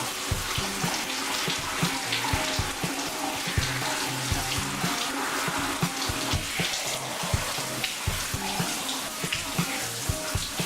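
Steady rain falling and splashing, under background music with a steady beat.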